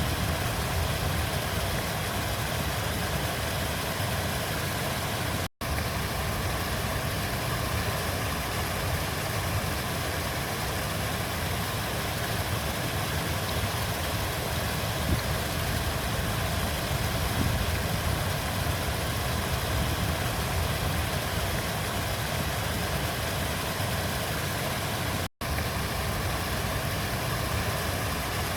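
River water flowing in a steady rush, heaviest in the low range, with two very brief dropouts to silence, about five seconds in and near the end.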